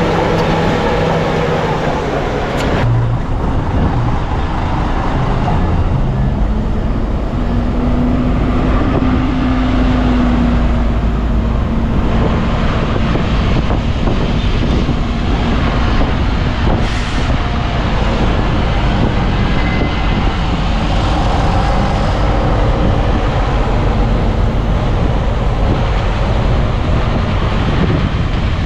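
Heavy diesel earthmoving machinery, a bulldozer working alongside dump trucks, running steadily. The engine note rises and falls for several seconds near the middle, and there are a couple of sharp clanks.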